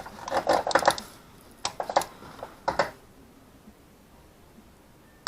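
Quick metallic clicks and clatter of a torque wrench and socket being handled, over roughly the first three seconds, then quiet.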